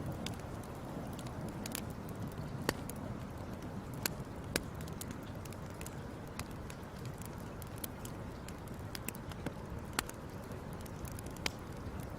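Wood fire crackling: a steady low rushing noise with irregular sharp pops and snaps, a few of them louder than the rest.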